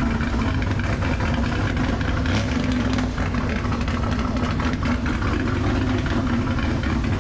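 Car engine running at a steady idle.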